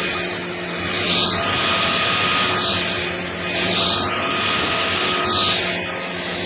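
Shark cordless stick vacuum running steadily, its sound rising and falling in a regular rhythm about every 1.3 seconds.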